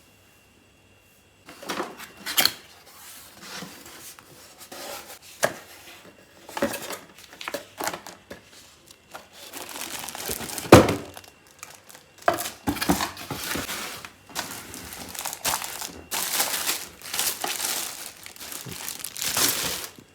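Plastic packaging crinkling and tearing in irregular bursts, with a few sharp knocks, as a newly bought item is unpacked.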